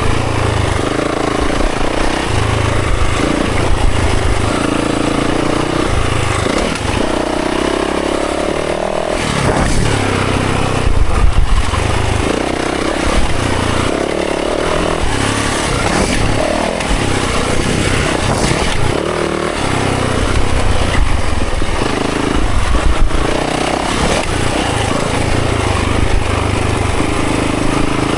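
Dirt bike engine revving up and falling back again and again, with the pitch rising and dropping every few seconds as the bike is ridden hard along a trail.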